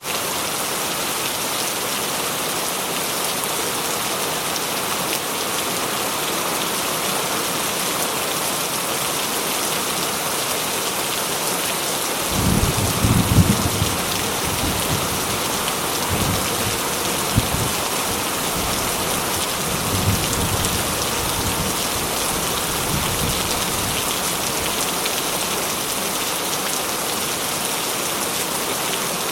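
Heavy rain falling steadily. Partway through, thunder rumbles low in several rolls over about ten seconds.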